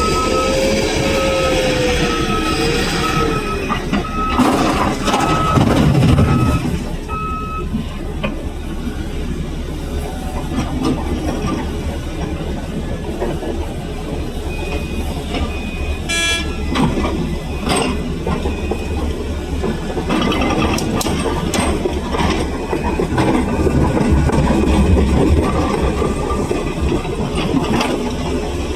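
Heavy mining vehicle engine running, with a reversing alarm beeping steadily for the first seven seconds or so and scattered knocks.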